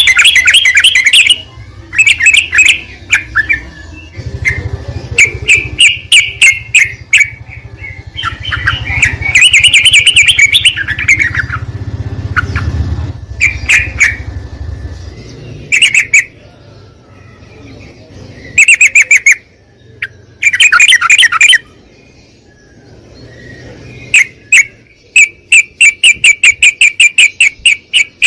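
Yellow-vented bulbul (trucuk) song: loud, repeated bursts of bubbly chirping phrases with short pauses between them. Near the end comes a fast run of sharp notes, about five a second.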